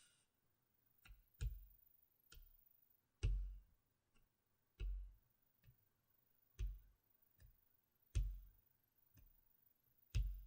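Slow, deliberate close-miked taps on the GoPro Hero 4 Silver's packaging, each with a deep thump. A louder tap comes about every second and a half, with lighter ticks between.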